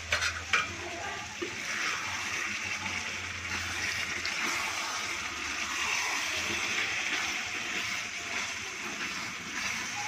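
Chicken curry sizzling steadily in a non-stick pan on a gas stove while a spoon stirs it, with a few sharp clicks near the start.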